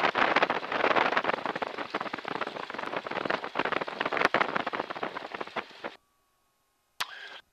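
Crackling rush of noise over a T-6 Texan's cockpit intercom while taxiing, cutting off abruptly about six seconds in, followed by one short burst of the same noise near the end.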